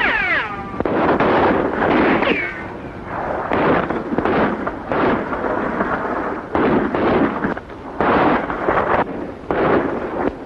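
A rapid exchange of pistol and rifle shots in an old film soundtrack, more than a dozen reports with short echoing tails. There are falling ricochet whines at the start and again about two seconds in.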